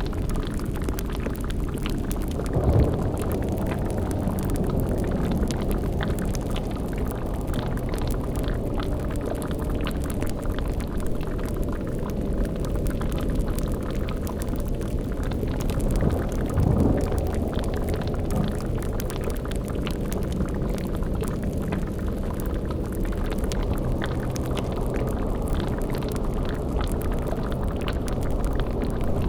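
Layered spooky sound-design ambience: a steady, low bubbling like a boiling cauldron over a deep rumble, with a brief louder low swell about three seconds in and another about halfway through.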